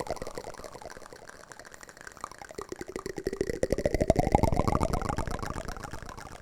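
Wooden spoon ASMR trigger: a fast, continuous run of small taps and scrapes whose hollow ringing slides down in pitch and fades, then swells and rises again about four seconds in.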